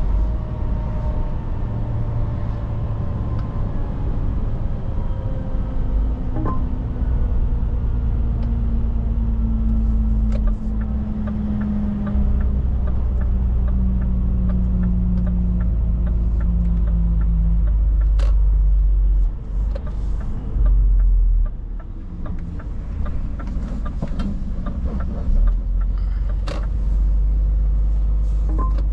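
Scania 500S truck's diesel engine and drivetrain running under a low rumble, its pitch falling steadily over the first half as the truck slows, then settling into a steadier low drone.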